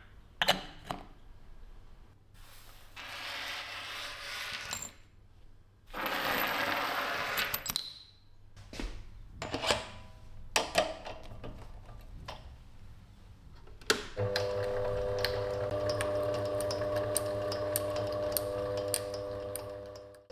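Small metal parts clinking and knocking, two bursts of hissing, then a small electric motor starts about two-thirds of the way in and runs steadily with a pitched hum and rapid light ticking.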